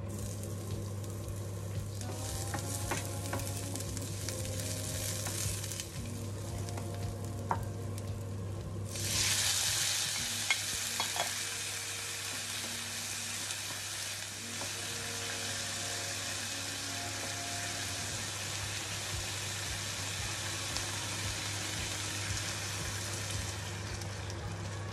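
Chopped garlic and ginger sizzling in hot oil in a non-stick frying pan. About nine seconds in the sizzle jumps much louder as chicken, water chestnuts and bamboo shoots go into the pan, then it settles into steady stir-frying, with a wooden spatula clicking against the pan. A steady low hum runs underneath.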